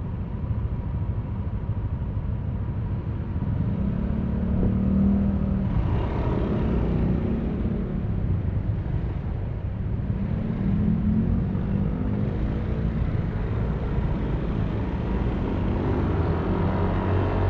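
Yamaha Aerox V3 scooter's 155 cc single-cylinder engine running under way, a steady low rumble with wind noise on the mic. The engine note swells a few times as the throttle opens, about four seconds in, again around six seconds and near ten to twelve seconds.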